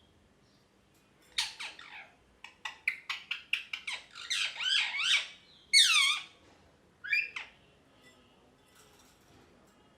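Pet ringneck parrot calling in a run of short chirps and squawks, many sweeping down in pitch. The calls start about a second and a half in; the loudest is a falling squawk about six seconds in, and they stop after about seven and a half seconds.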